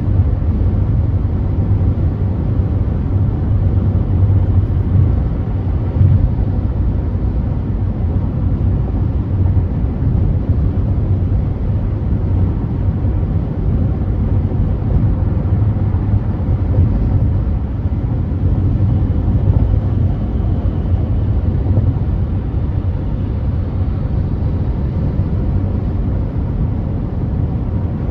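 Car driving at freeway speed: a steady low rumble of tyre and road noise that holds even throughout.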